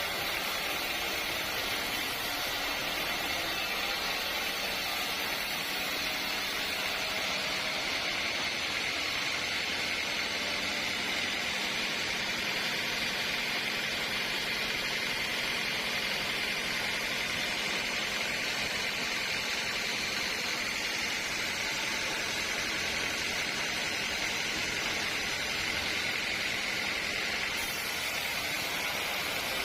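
Sawmill machinery running with a steady hiss and hum, with no breaks or separate knocks.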